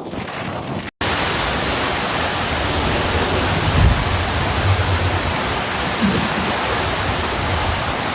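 Heavy rain and wind from a tropical cyclone: a dense, steady hiss, broken by a brief cut about a second in, with low thumps around the middle.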